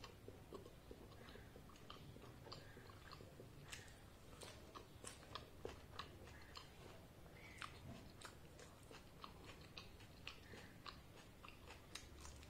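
Faint, close-miked chewing of mouthfuls of luchi and ghugni, with irregular soft wet clicks and smacks of the mouth.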